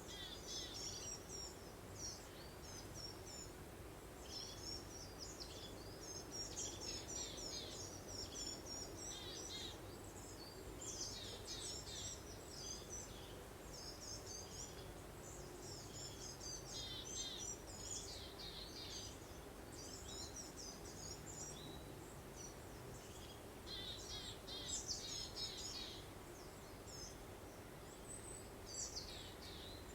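Birds chirping and singing in quick, overlapping phrases, over a steady low rush of breeze.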